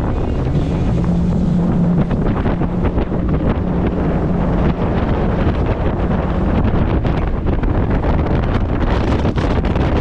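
Outboard motor of a Thundercat inflatable boat running at speed, heavily buffeted by wind noise on the microphone, with a steady low engine tone through the first half.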